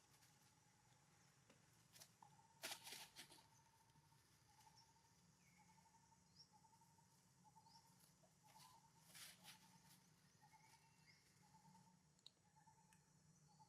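Faint forest ambience. A thin pulsing call repeats about once a second throughout, with a few faint bird chirps and two brief spells of crackling rustle, about three seconds in and again about nine seconds in.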